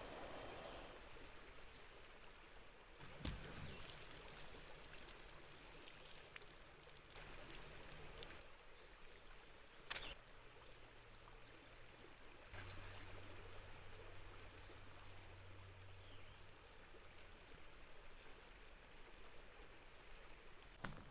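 Faint outdoor ambience of running stream water, with a couple of brief knocks and a faint low hum in the middle.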